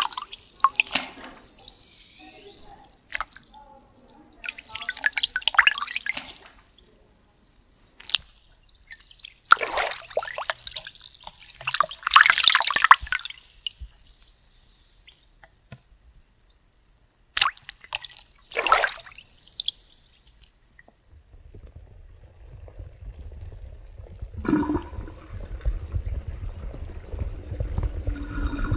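Hot-spring bath water splashing and sloshing in a string of separate swishes, as a body moves about in the tub. In the last third a low, steady rumble of moving water sets in.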